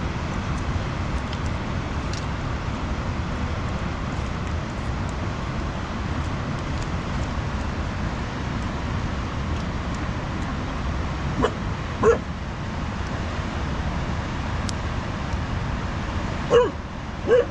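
A dog barking in short calls, twice about two-thirds of the way through and twice more at the end, over a steady rushing noise.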